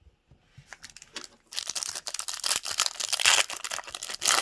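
A foil trading-card pack being torn open and its wrapper crinkled, with a few light clicks and then a long run of dense crackling from about a second and a half in.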